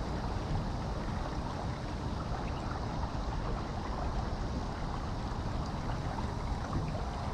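Steady rush of open-water ambience from a kayak, water and wind noise with a low rumble and no distinct events.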